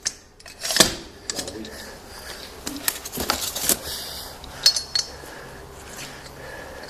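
Metal parts of a fender roller tool being handled and fitted together: a few sharp clinks and knocks, scattered and irregular, the loudest about a second in.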